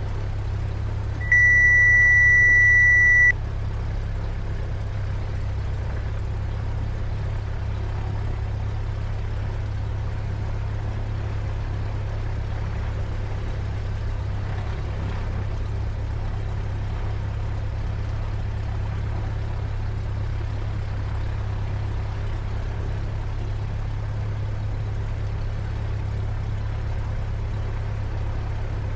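Cessna 172's engine idling, heard in the cabin as a steady low drone. About a second in, a loud steady high-pitched electronic tone sounds for about two seconds and cuts off.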